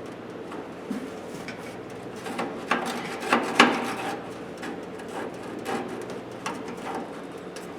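Sheet-metal clicks and knocks as a drawer is worked out of an old Craftsman metal toolbox, its release tab being pushed; a cluster of sharp knocks comes a little past the middle, the loudest about three and a half seconds in, with a few lighter clicks after.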